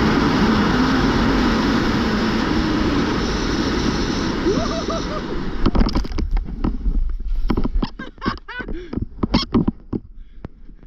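Loud wind rushing over the helmet camera's microphone in fast flight, which dies away about six seconds in. Scattered rustling, knocks and short vocal sounds follow.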